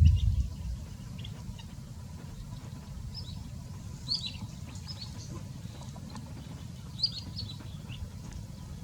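Bird chirping: short, high chirps in two clusters, a few seconds in and again near the end, over a steady low rumble.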